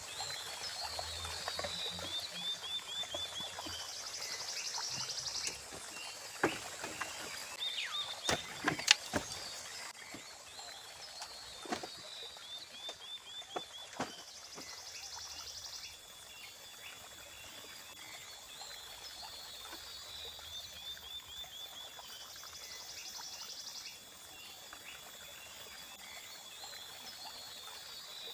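Night chorus of frogs and insects: a high call of rapid repeated notes and a buzzing trill, each coming back about every ten seconds. Several sharp knocks sound between about six and twelve seconds in.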